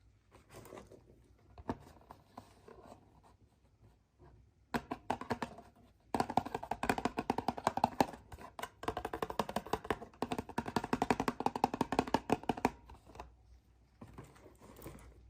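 Hands unwrapping and handling surprise-egg packaging and small plastic toy parts: a dense run of rapid crinkling and clicking that starts about five seconds in and stops near the end.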